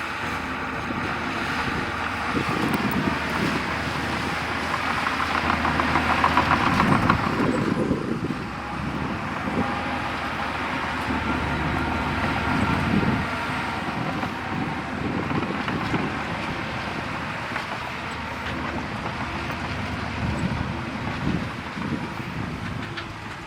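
Heavy diesel earthmoving machinery running continuously, with the engine noise growing louder from about five seconds in and dropping back about eight seconds in.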